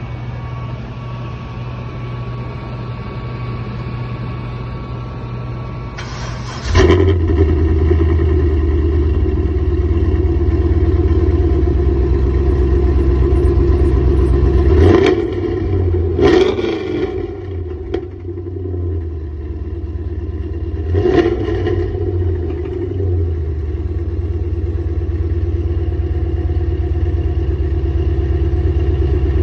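Car engine cranking and catching about six seconds in, then idling with three short revs, two close together and one a few seconds later.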